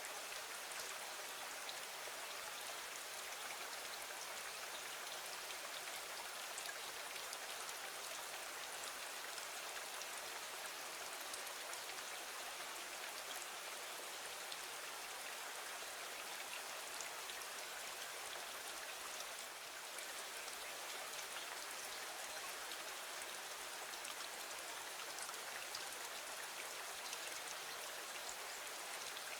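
Steady, gentle rain falling on a window, an even hiss of rain with faint ticks of individual drops.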